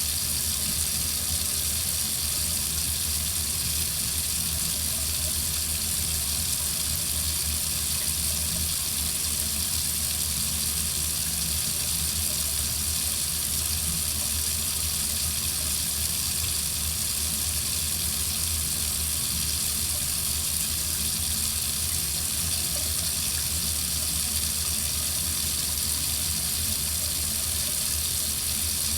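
Water running steadily from a faucet into a sink, an even, unbroken hiss of falling water.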